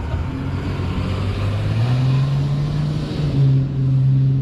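Car engine running, its note stepping up in pitch about two seconds in and fading away at the end, as a car moves past.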